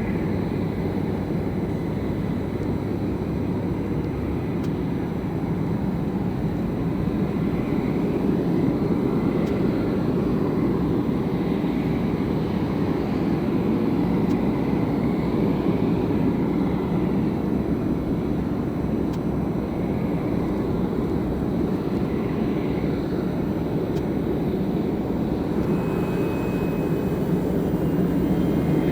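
Jet engines of a Boeing 747-400F running, a steady deep rumble that grows slightly louder after the first several seconds.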